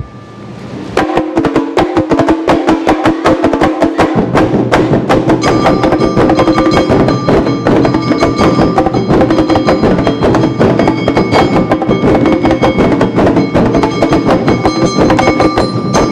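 Awa Odori festival band playing, starting up about a second in: rapid, dense strokes of drums and hand gongs, with steady high ringing tones joining about five seconds in.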